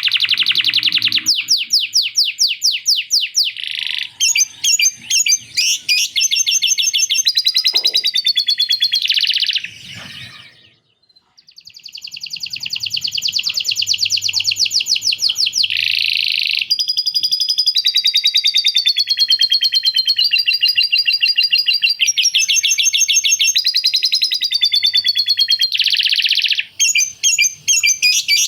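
Male canary singing a long, loud song of rapid rolls of repeated high notes, changing phrase every second or two, with a brief break about eleven seconds in. The song is filled with phrases learned from a lovebird's chattering.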